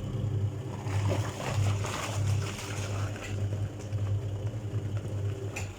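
Wansa 12 kg twin-tub washing machine running its wash cycle: the wash motor hums with a pulsing beat while the pulsator churns the water and suds. The motor cuts off shortly before the end.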